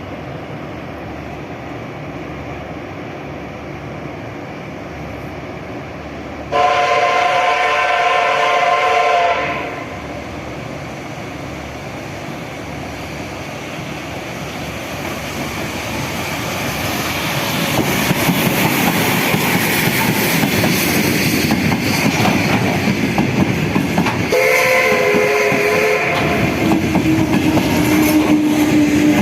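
A train sounds a loud, chord-like horn for about three seconds. Then the train approaches and runs past, its rumble and wheel clatter on the rails growing louder over several seconds. Near the end it gives a second, shorter horn blast, followed by a steady, slightly falling tone.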